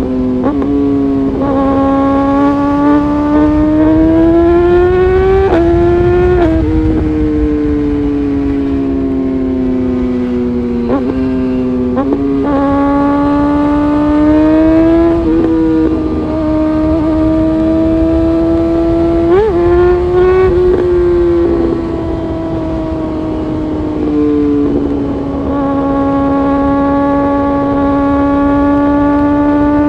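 Honda CBR600RR's inline-four engine under way. Its note climbs slowly and then drops back, several times over, as the rider shifts through the gears.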